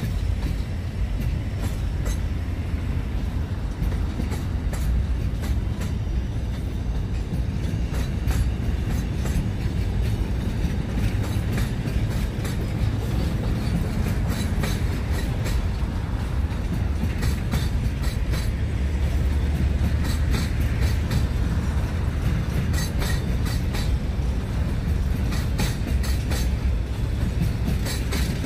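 Container flat wagons of a long freight train rolling past, a steady low rumble with many sharp clicks from the wheels, often in quick clusters.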